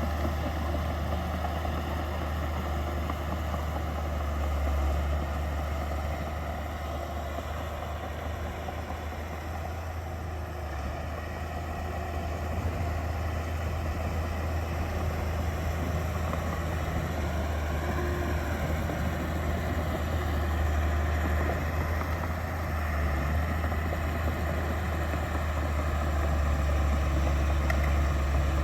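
Diesel engine of heavy earthmoving machinery running steadily with a deep hum, getting a little louder near the end.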